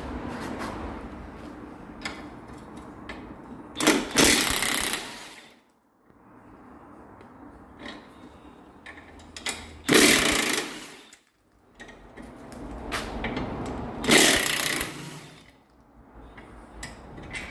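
Power tool running in three short bursts of about a second each, undoing fasteners during gearbox removal.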